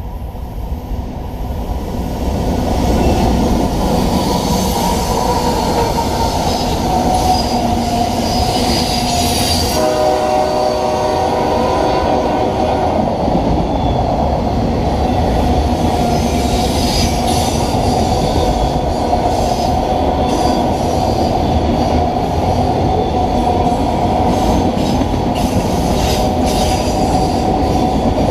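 A CSX freight train led by two GE diesel locomotives and made up of autorack cars passes at speed, growing louder over the first couple of seconds into a steady rumble of engines, wheels and rails. About ten seconds in the locomotive horn sounds one chord for roughly three seconds. After that the passing cars keep up wheel-and-rail clatter with some squeal.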